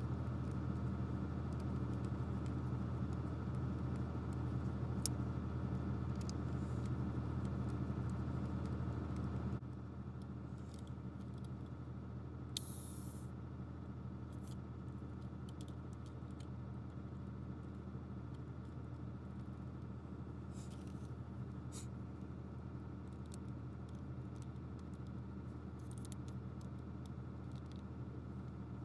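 A steady low mechanical hum that drops suddenly in level about a third of the way in and then carries on more quietly, with a few faint clicks and light rustles of handling.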